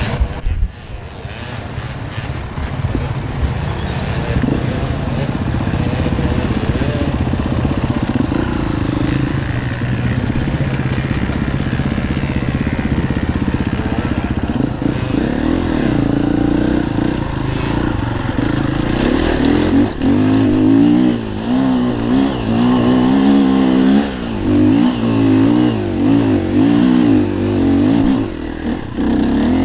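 Enduro dirt bike engine running under load, its pitch rising and falling again and again through the second half as the throttle is opened and shut.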